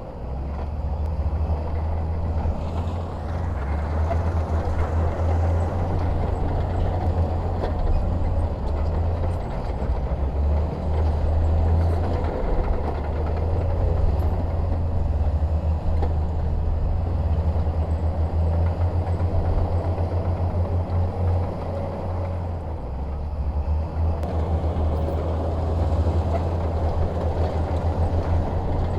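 Bulldozer's diesel engine running steadily with a low drone, easing slightly now and then as it works.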